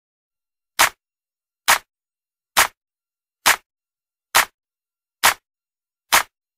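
Seven sharp ticks, evenly spaced a little under a second apart, with dead silence between them: a ticking sound effect.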